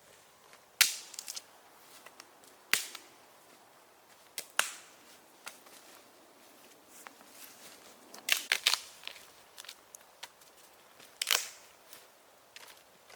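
Sharp wooden cracks and snaps at irregular intervals, a few seconds apart, with a quick cluster of several a little past the middle.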